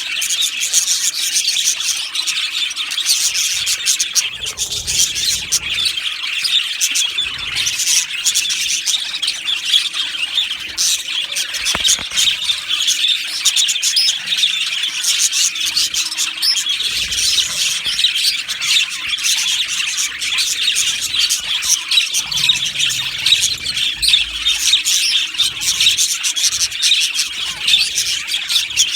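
A colony of budgerigars chattering and chirping, many birds calling at once in a dense, continuous warble.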